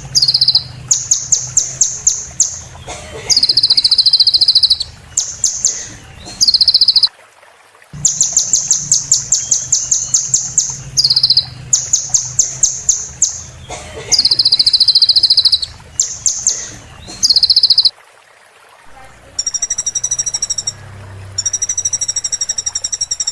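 Sunbird (kolibri) song: fast runs of sharp, high chirps alternating with sustained buzzy trills, in phrases that repeat after short pauses. Near the end the song changes to a higher, evenly pulsed call.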